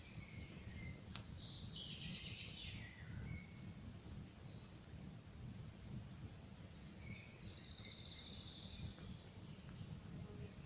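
Small forest birds singing, with short high chirps repeated over and over and two longer buzzy trills, one about a second in and one about seven seconds in. A single sharp crackle from a campfire comes about a second in, over a steady low rumble.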